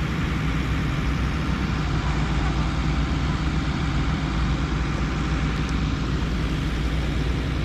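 The engine of heavy earthmoving machinery running steadily with a low, even hum.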